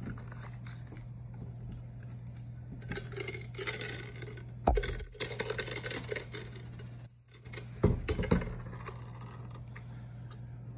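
Rustling, scraping and a few sharp knocks as a trash bag is handled and pulled out, over a steady electrical hum.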